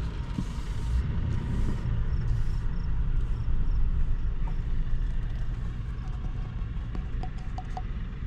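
Low vehicle rumble that dies down about six seconds in, followed by a few light clicks.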